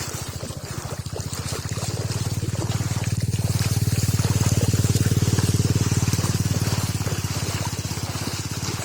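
Small motorcycle engine running at a steady pace, getting louder about two seconds in and easing slightly near the end.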